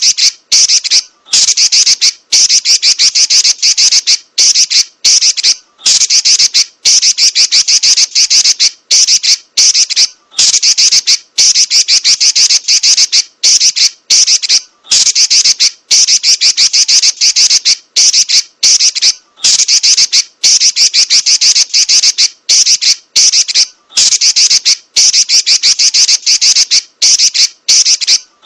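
Female Pekin robin (red-billed leiothrix) chattering: long runs of rapid, high-pitched notes, loud and continuous, broken by brief pauses every second or two.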